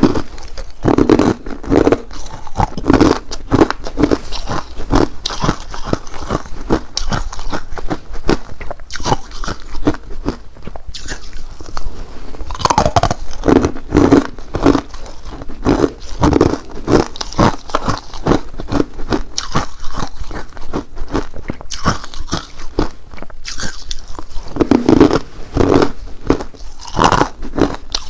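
Close-up crunching and chewing of ice: a dense, irregular run of loud cracks as the ice is bitten and ground between the teeth.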